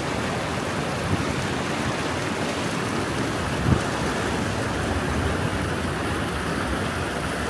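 Water rushing steadily through a breach torn in a beaver dam in a drainage ditch, with a brief knock about halfway through.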